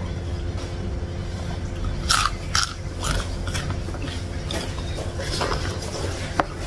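Close-miked chewing and biting of food, with wet mouth clicks and scattered crisp crunches, a cluster about two to three and a half seconds in and one sharp click near the end.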